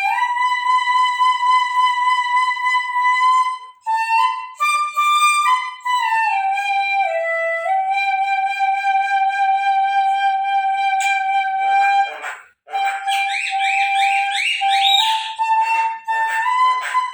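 Bangdi (Chinese bamboo flute) playing a solo melody of long held notes, breaking off briefly for a breath about two thirds of the way through and then playing quick trilling ornaments.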